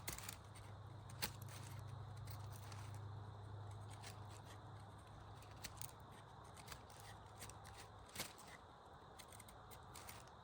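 Faint, scattered clicks and light rustling, a sharp tick every second or two, over a low steady hum that fades away past the middle.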